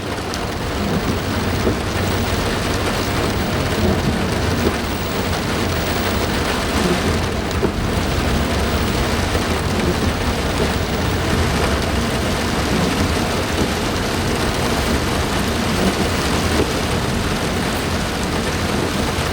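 Heavy rain falling steadily: a loud, even hiss with a low rumble underneath.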